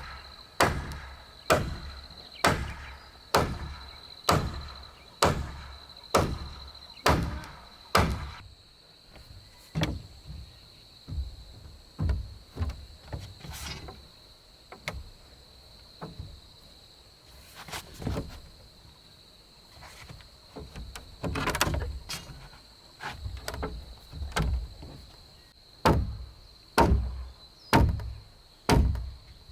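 Blows of a hand tool on wood in a regular run, a little over one a second, for the first eight seconds. Then come sparser blows, a longer, rougher sound a little past the middle, and a quick run of blows again near the end. A steady high whine sits behind it throughout.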